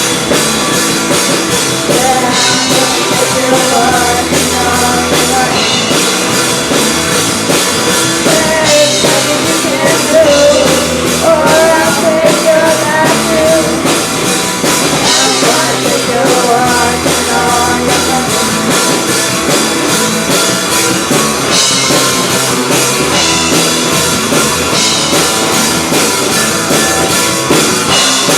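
Rock band playing a song live: drum kit, electric guitars and bass, with singing in places.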